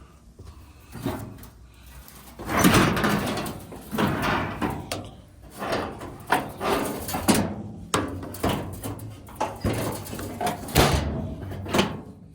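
Handling noise from an old truck's steel body: a busy run of irregular clunks and scrapes with a few sharp knocks, like a door or panel being worked.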